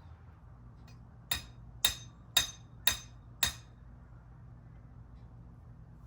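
Five quick hammer blows on a nail, about two a second, each a sharp knock with a brief ring.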